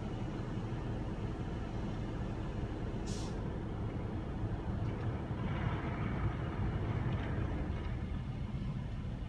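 Refuse truck engine running steadily, with a short, sharp hiss of air about three seconds in and a rise in noisier sound partway through.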